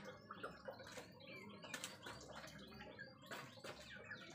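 Faint bird chirping, many short quick chirps, with scattered light clicks and taps.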